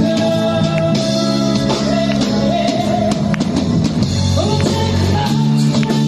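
Rock band music with guitar and drums playing steadily, a sung or played melody line over it.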